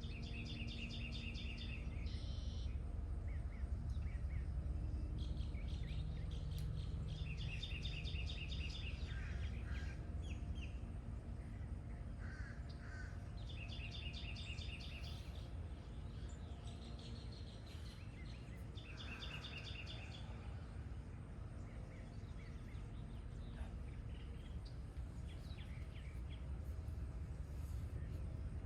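Outdoor birdsong: one bird gives a repeated pitched call in four bouts about six seconds apart, with fainter chirps from other birds in between, over a steady low rumble.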